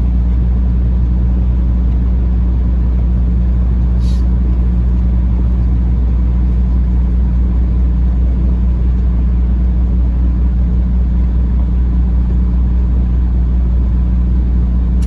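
Peterbilt 579 semi truck's diesel engine idling, a steady low drone that holds an even pitch throughout, heard inside the cab; a single short click about four seconds in.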